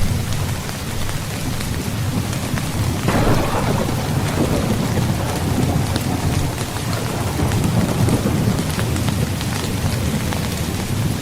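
Steady heavy rain, with a roll of thunder that breaks in about three seconds in and rumbles on for several seconds.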